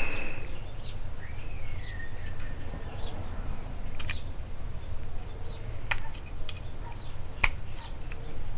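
A few scattered sharp clicks of a small tool working against the metal cap of a car trunk lock cylinder as its crimped edge is pried up, over a steady low rumble.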